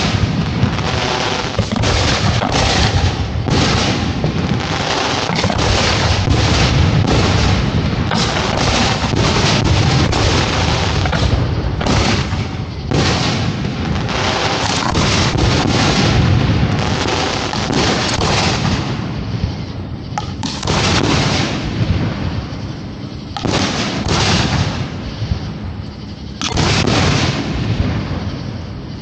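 Fireworks display shells launching and bursting close by in a dense, rapid barrage of booms and bangs, thinning briefly a few times near the end.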